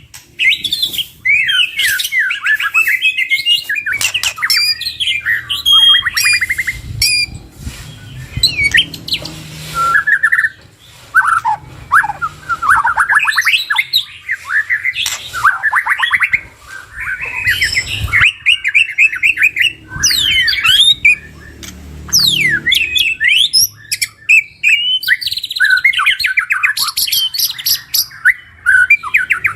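Two white-rumped shamas singing almost without pause: a dense, ever-changing song of fast trills, sweeping whistled glides and sharp clicking notes.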